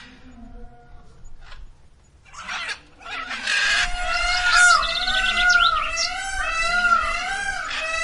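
Birds calling: a dense chorus of repeated, arching whistled notes from many birds at once. It comes in loudly about three and a half seconds in, after a quieter stretch.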